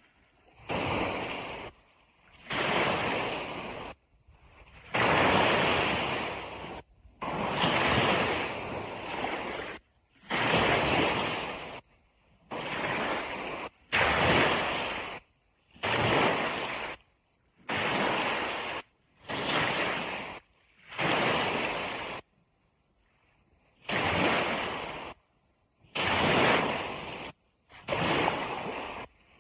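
Ocean waves breaking on a beach, heard as surf noise cut into short bursts of one to two seconds. Each burst starts and stops abruptly, with brief silent gaps between them.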